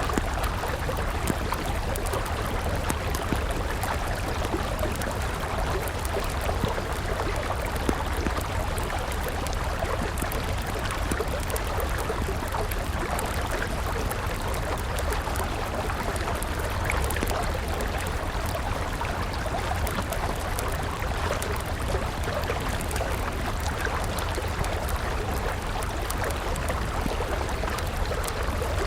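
Steady rush of a flowing river, with faint scattered crackles from a wood campfire.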